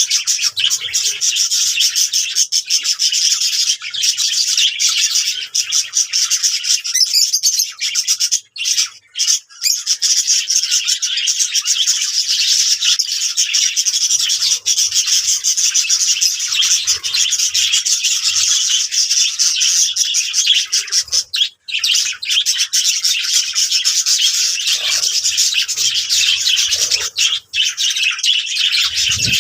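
Budgerigars chattering and warbling continuously in a dense mass of high chirps, with a couple of brief lulls.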